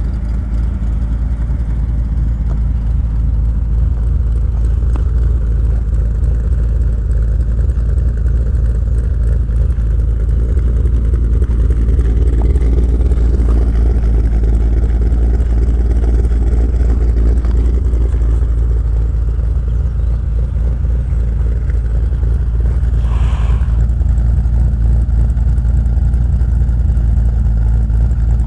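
The 450 hp engine of a 1964 Chevrolet truck running steadily with a deep rumble. A brief high tone sounds about three-quarters through.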